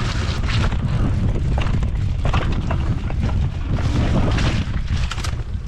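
Low rumble of wind buffeting the microphone as a fat-tire e-bike rolls over a muddy, slippery trail, with scattered knocks and rattles from bumps.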